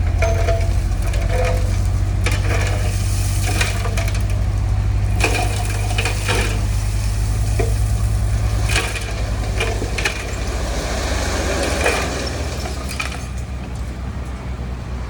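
Heavy diesel construction machine running, a deep steady engine drone with irregular knocks and cracks over it. The engine note drops about ten seconds in.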